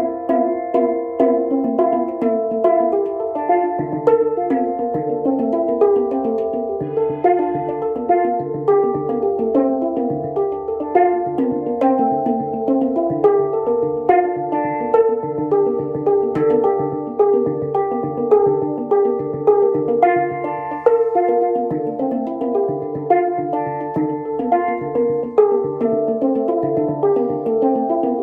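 Handpan played by hand: a quick, continuous flow of struck, ringing notes that overlap as they sustain, with lower notes pulsing underneath.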